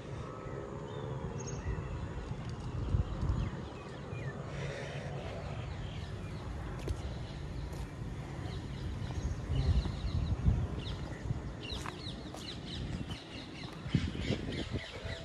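Birds chirping outdoors, with a quick run of repeated high chirps in the last few seconds, over a low rumble that swells twice.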